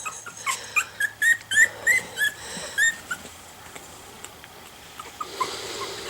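Young miniature schnauzer puppies squeaking. About ten short, high squeaks in quick succession over the first three seconds, then quieter, with a faint hiss near the end.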